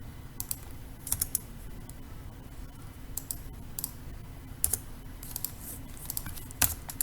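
Typing on a computer keyboard: irregular key clicks in short runs with pauses between them.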